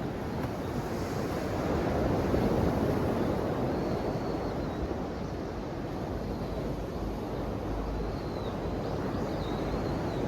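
Ocean waves surging and washing in steadily, swelling about two seconds in and then easing back. A few faint high chirps sound over the surf.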